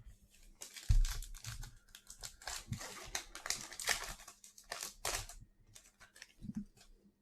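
A trading card pack's plastic wrapper being torn open and crinkled. There is a soft thump about a second in, and the crinkling dies away after about five seconds.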